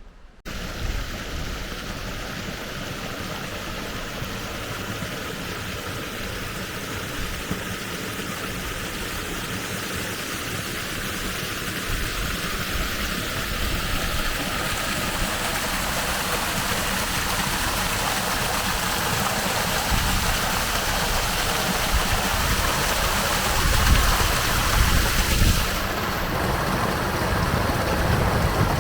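River water rushing in a steady wash that grows louder, with a low rumble of wind buffeting the microphone in the second half.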